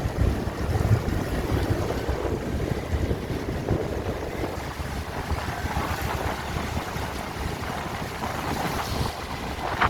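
Wind buffeting the microphone of a moving vehicle, a steady low rush with gusts.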